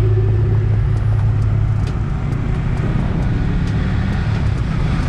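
Yamaha R15 V3 motorcycle's single-cylinder engine running steadily while riding, heard from the rider's position with road and wind noise.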